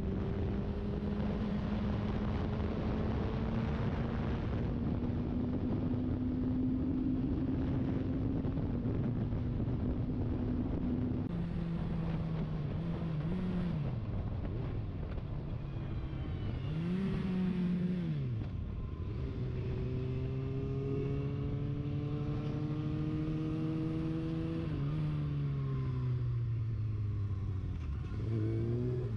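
Sport motorcycle engine under way, its note climbing slowly, then falling and rising several times with throttle changes, a quick blip about two-thirds of the way in, and a drop and fresh climb near the end. A steady rush of wind runs underneath.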